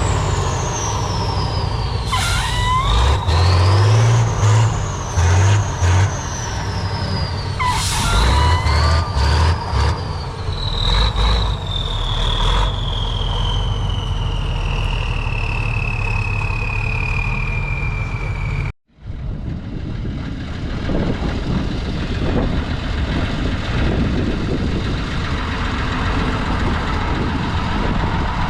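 Heavy off-road trials truck's diesel engine revving hard under load in surges, with a high turbo whistle gliding up and down and a few short hisses of air. After a brief dropout about two-thirds of the way through, the engine runs on more steadily.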